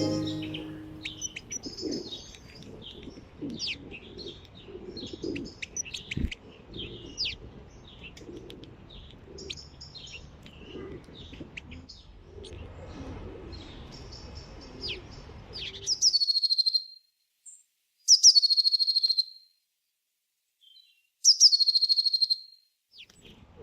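Small songbirds chirping and calling over a low background rumble. In the second half, three loud, clear calls come a couple of seconds apart, each falling in pitch and lasting about a second.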